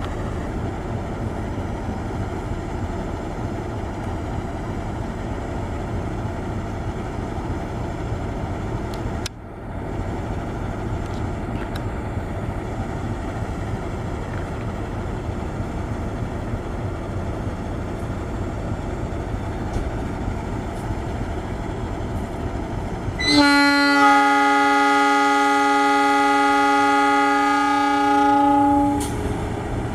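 Steady low rumble of a train, then near the end a long train horn blast of several tones sounding together, held for about five and a half seconds before cutting off.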